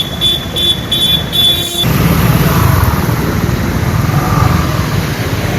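Road traffic with vehicles running. A high electronic beep pulses about three times a second for roughly the first two seconds, then stops, leaving a steady low engine and traffic rumble.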